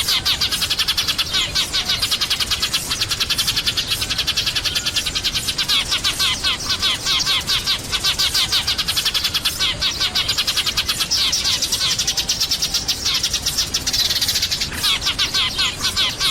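A flock of sparrows chirping without pause, many quick overlapping notes forming a dense chatter.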